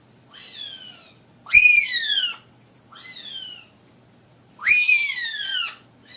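Parrot giving repeated whistled calls, each sweeping quickly up in pitch and then sliding down, about a second long. Two loud calls alternate with three fainter, shorter calls of the same shape.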